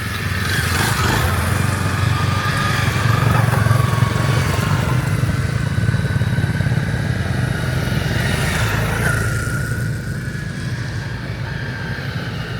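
Motorcycle engine running steadily under way, a little quieter near the end.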